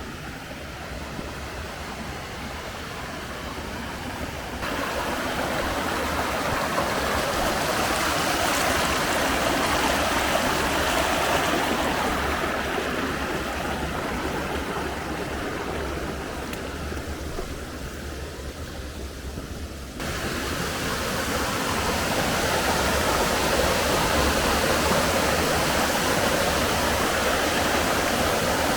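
Rushing water of a mountain stream and waterfall, a steady dense hiss. It jumps louder suddenly about five seconds in, fades somewhat past the middle, then jumps louder again about twenty seconds in as the waterfall's sound fills it.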